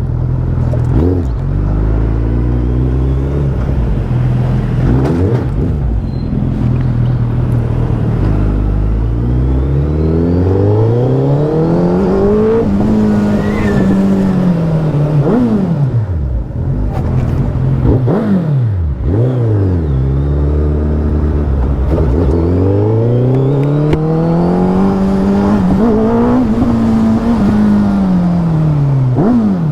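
Suzuki Hayabusa's inline-four engine under way, its pitch climbing in long pulls and dropping again. Several brief sharp dips in pitch mark the throttle closing for gear changes.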